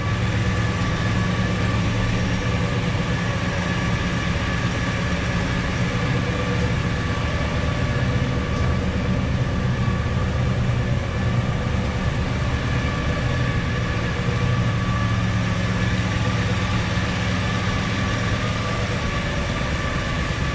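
1964 Chevrolet El Camino's V8 engine idling steadily, heard with the hood shut.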